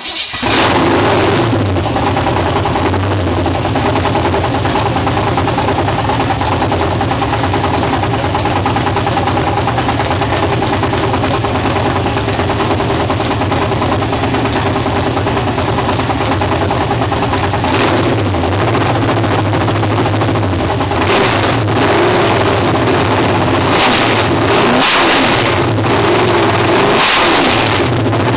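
355 small-block Chevy V8 (a 350 bored .030 over) with a big-lift aftermarket cam and Holley dual-plane intake, coming in abruptly and running at idle. It is revved briefly several times in the second half.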